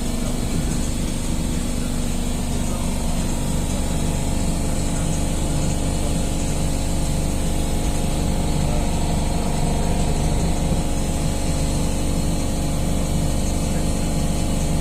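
Suburban electric train running: a steady rumble and hum with a few steady tones, and no break or change.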